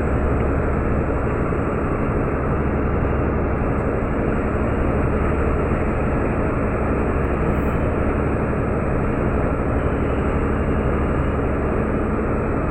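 Meteor-class hydrofoil's diesel engines running steadily under way, a deep, even drone with a rushing noise over it.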